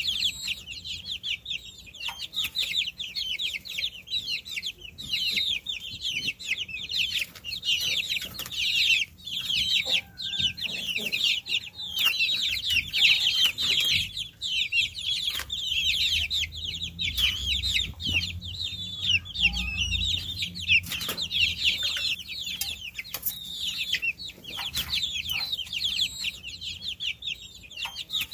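A brood of baby chicks peeping without pause: many quick, high peeps overlapping in a dense chorus, with scattered light clicks. A faint low rumble comes in around the middle.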